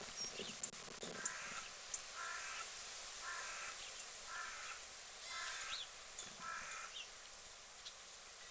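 A bird calling six times in a steady series, about one call a second, with a few faint high chirps of small birds in between.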